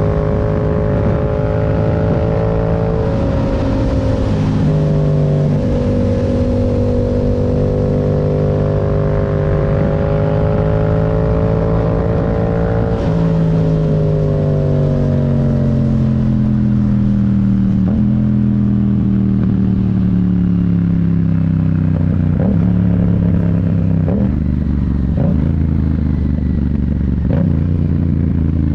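Yamaha MT-07's parallel-twin engine running under a rider at a steady cruise. About halfway through the engine note steps down and falls gradually, with a few short clicks along the way, as the bike slows down through the gears.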